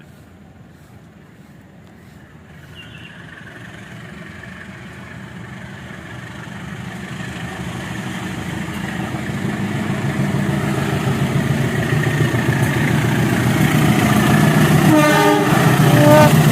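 A train approaching along the track, its rumble growing steadily louder over about fifteen seconds.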